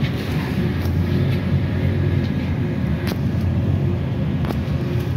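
Public transport vehicle running, heard from inside: a steady low drone with a couple of short knocks and a faint tone rising slowly near the end.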